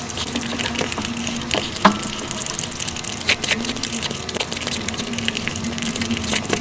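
Sped-up close-miked eating sounds of puri with curry: a fast, dense run of wet chewing, smacking and squelching clicks, with a few sharper snaps.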